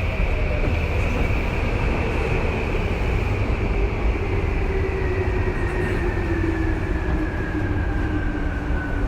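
Tokyu 2020-series electric train running on the rails with a low steady rumble, its traction motor whine falling steadily in pitch as the train slows.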